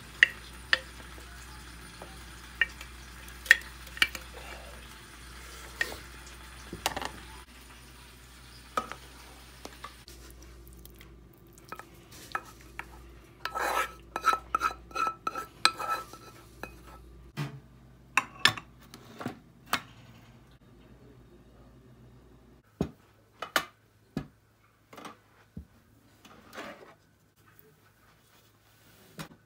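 Kitchen utensils being handled: a spoon stirring and clinking against dishes, with a quick run of ringing clinks near the middle and scattered taps and knocks.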